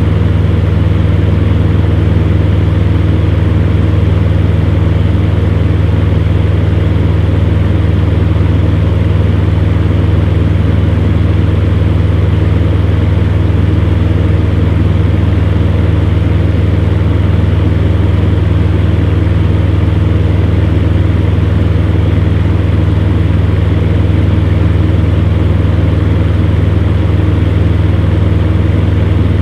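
Fan heater running steadily: a deep, unchanging hum from its motor under the even rush of its blower air.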